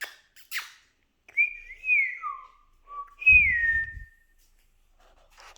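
Whistled notes: a few clear gliding tones, wavering then dipping, and a last, loudest note that slides down in pitch about three seconds in. A couple of short clicks come just before.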